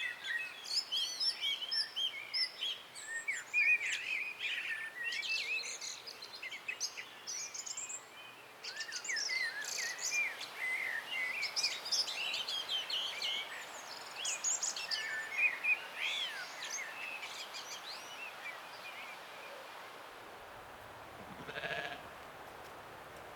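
Several songbirds singing and chirping together, busy at first and thinning out near the end, then a single sheep bleat about three-quarters of the way through.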